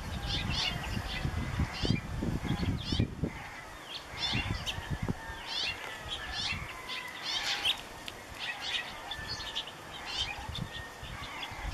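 Small birds chirping in short, quick notes again and again, with a low rumble under the first few seconds.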